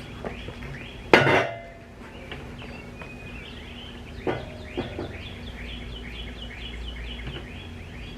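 A bird chirping over and over in short falling notes, several a second. A loud burst comes about a second in, and a couple of sharp knocks or clinks follow a few seconds later.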